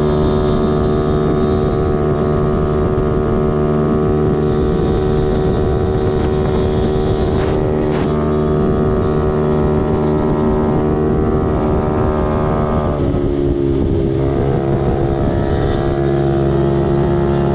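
Dirt bike engine running steadily under way, with wind on the microphone. About 13 seconds in the engine note drops and then rises again as the throttle is eased off and opened back up.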